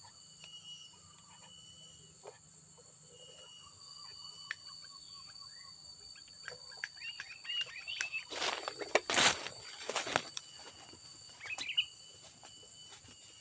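Sooty-headed bulbul (kutilang) calling: several quick chirps, then a few loud harsh bursts about two-thirds of the way in and a short chirp near the end, over a steady high buzzing of insects.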